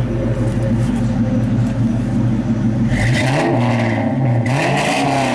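1999 Ford Mustang GT's swapped-in 5.4-litre V8 breathing through Flowmaster Super 44 mufflers, idling steadily, then revved twice from about three seconds in, the pitch rising and falling each time.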